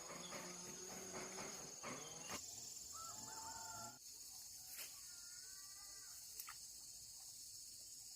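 Steady, high-pitched insect drone, with short, wavering animal calls over it: a cluster in the first two seconds, then single calls about three and a half and five and a half seconds in, and a couple of sharp clicks.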